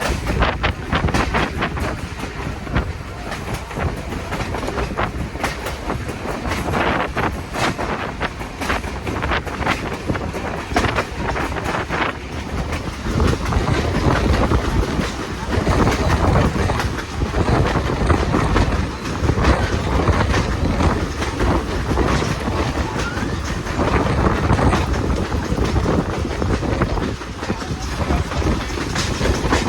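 Passenger train cars rolling along the track, heard from on board: a steady rumble with the wheels clicking over rail joints. The rumble grows a little louder about halfway through.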